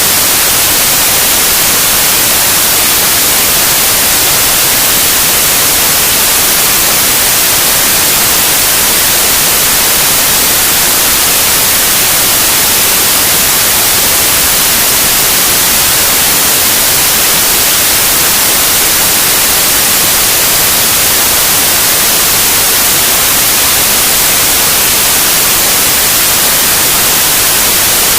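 Loud, steady white noise: an even hiss without any change, strongest in the high end.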